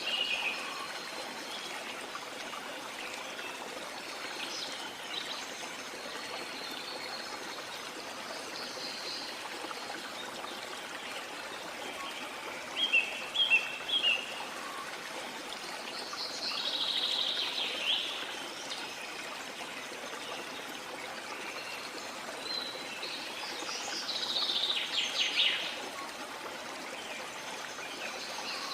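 Steady rush of a stream or waterfall, with birds singing over it: a quick run of chirps about halfway through and longer trilling songs a little later and again near the end.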